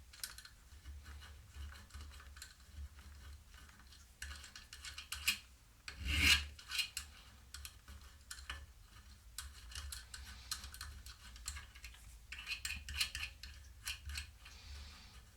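Metal file rasping in repeated strokes across the cut end of a threaded rod, deburring the sharp edges of the threads. A louder knock comes about six seconds in.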